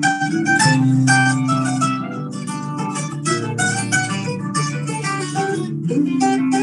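Live band playing an instrumental passage: quickly picked guitar notes over sustained low notes, with no singing.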